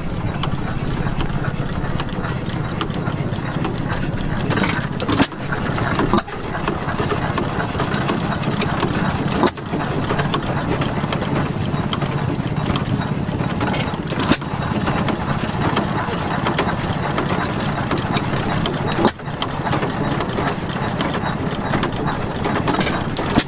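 Antique gas engines running steadily, with a few sharp clicks or brief dropouts.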